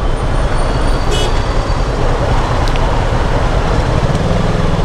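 Heavy road traffic heard from a motorcycle riding through it: a steady roar of engines and road noise, with a short high horn toot about a second in and a low engine hum rising out of the roar near the end.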